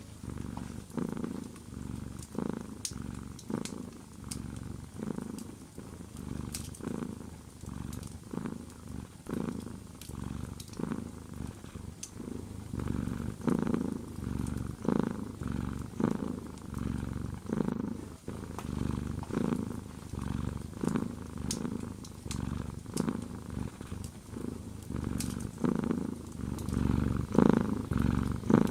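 Domestic cat purring close up, its purr swelling and fading with each breath about once a second. Faint scattered crackles of a fireplace fire run beneath it.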